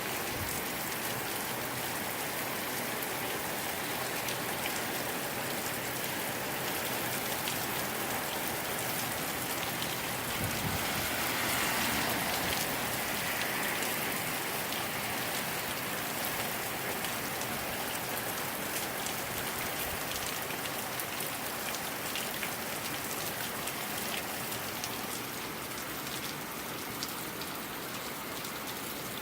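Steady rain falling on surfaces, swelling louder for a few seconds about halfway through.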